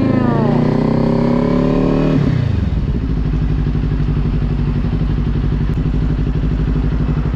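Kawasaki Ninja 400's parallel-twin engine revving up, rising in pitch for about two seconds, then dropping sharply to a steady low running note.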